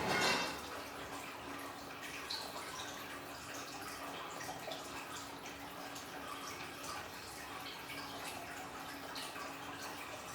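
Water trickling steadily from an aquarium's small waterfall, with scattered small drips and plinks. A brief louder splash comes right at the start.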